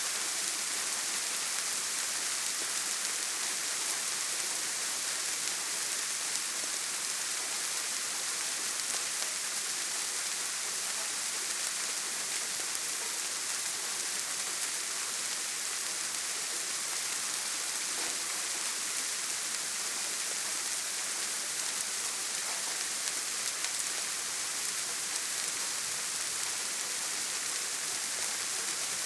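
Steady heavy rain on a tin roof, an even, unbroken hiss.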